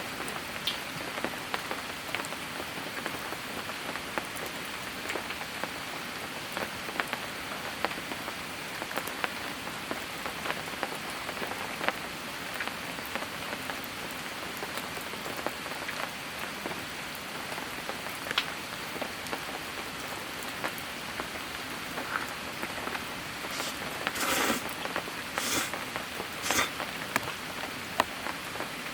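Steady rain falling on a surface, with many separate drop taps through a continuous hiss. Near the end a few louder drop hits stand out.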